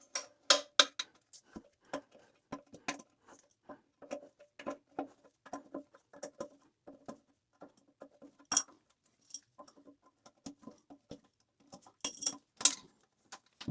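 Irregular metal clicks and taps as a hand tool works the nut and washer off a toilet's floor bolt, with a few louder clinks near the start, about two-thirds through and near the end.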